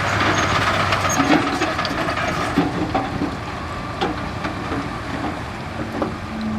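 Heavy earthmoving machinery working rock: a diesel engine runs under a noisy rumble, with scattered sharp knocks and clatter of rock. A steady engine note enters near the end.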